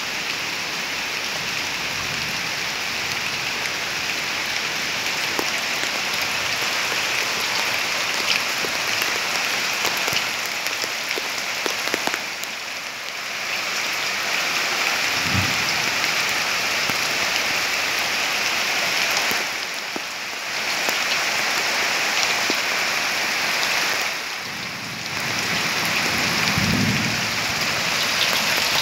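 Steady rain falling on a corrugated roof: an even hiss that dips briefly three times.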